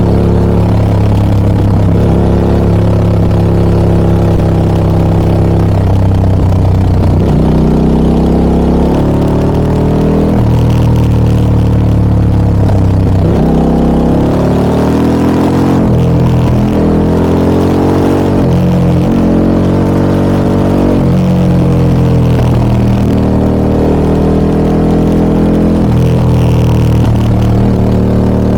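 Harley-Davidson Pan America 1250 Special's Revolution Max V-twin running through an aftermarket Scorpion exhaust while riding, the engine pitch climbing and dropping back several times as it accelerates, shifts gears and eases off.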